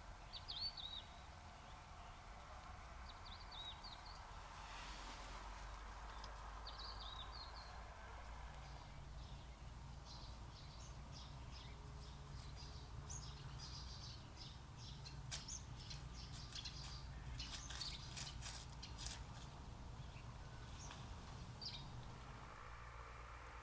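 Small birds chirping in short calls, a few at first, then a busier spell of calls in the middle, over a faint steady low background rumble.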